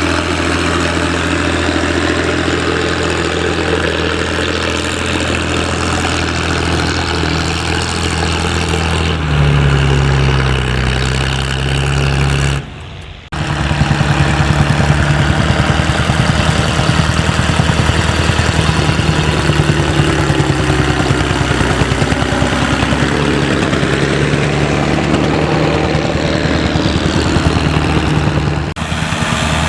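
Vintage tractor engines running under load while ploughing, a steady pulsing beat; the engine note steps up about nine seconds in, and the sound cuts briefly about thirteen seconds in before carrying on with another steady engine beat.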